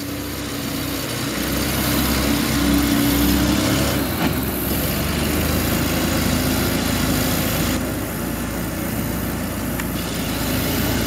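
1944 Volkswagen Schwimmwagen's air-cooled flat-four engine running as the amphibious car drives through shallow water, growing louder over the first couple of seconds.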